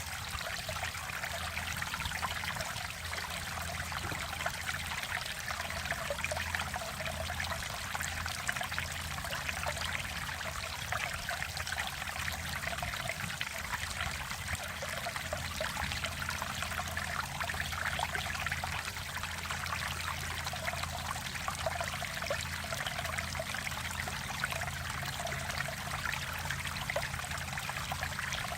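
Mountain valley stream flowing steadily, an even rushing and trickling of water with no breaks.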